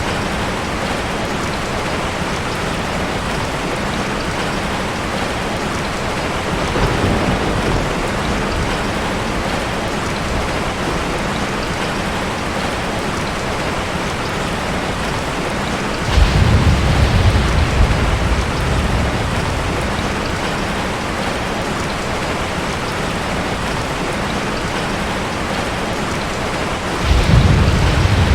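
Heavy rain falling steadily on a tin roof, with thunder rumbling in three times: faintly about seven seconds in, then two louder low rumbles that start suddenly past the halfway point and near the end.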